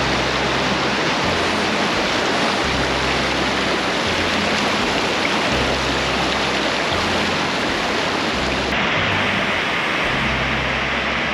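Fast-flowing river water rushing over a weir and down its concrete fish ladder: a loud, steady rushing. The sound turns brighter about nine seconds in.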